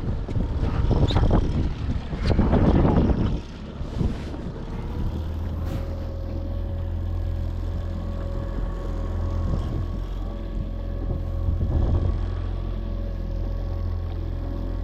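Wind buffeting the microphone in loud gusts for the first few seconds, then a boat motor running steadily with a low rumble and a held whine.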